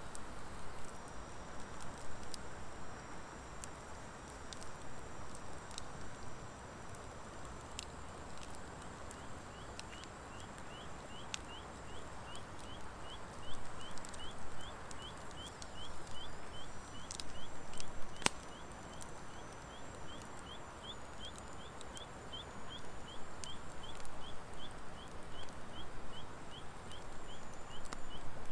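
Wood fire of driftwood and dry hardwood crackling, with scattered sharp pops and one louder pop about two-thirds through. From about a third in, a small creature gives a high chirp repeated about twice a second.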